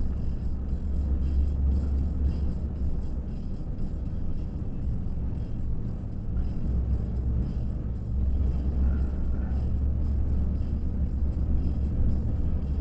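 Steady low rumble of a car driving, its road and engine noise picked up inside the cabin by a dash cam.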